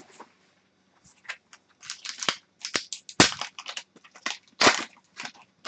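Hockey trading cards and packs being handled: a string of sharp, irregular snaps and short rustles, the loudest a bit past three seconds and again near five seconds in.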